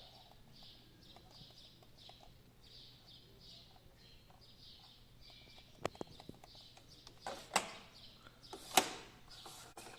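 Logitech B110 Silent mouse buttons clicked over and over, giving soft, muffled clicks about three a second. A few sharper, louder knocks come in the second half, the loudest near the end.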